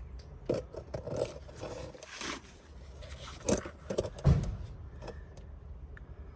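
Irregular metallic clinks, knocks and short scrapes of hand tools and metal parts being handled, with a heavier thump about four seconds in.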